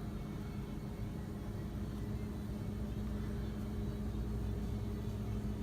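Steady low background hum with a constant droning tone, level and unchanging throughout.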